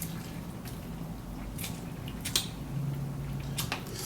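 Person chewing a mouthful of spicy instant noodles, with a few short, wet mouth clicks.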